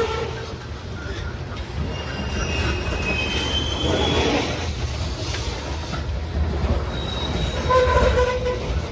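Freight train rolling slowly past: steady rumble of railcars on the rails, with thin high wheel squeals coming and going.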